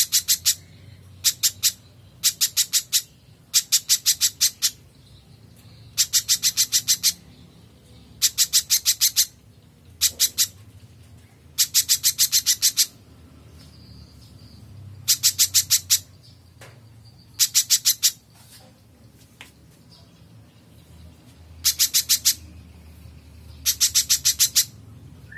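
Spiderhunter (pijantung) calling in short bursts of rapid, sharp chattering notes, each burst lasting about half a second to a second and repeated every one to two seconds, over a faint low hum.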